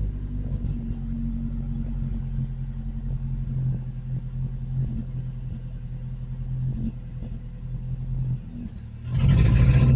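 Pickup truck engine idling with a steady low hum. It sags and nearly dies a little past the eight-second mark, then is revved up loud again near the end. The faltering is what the owner takes to sound like running out of gas.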